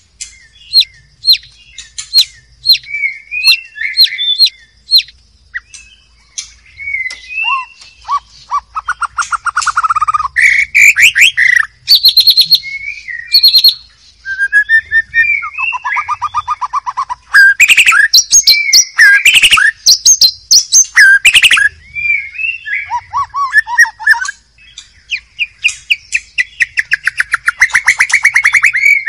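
White-rumped shama singing a long, varied song, phrase after phrase: gliding whistles, fast runs of repeated notes and sharp chattering notes, with short pauses between phrases.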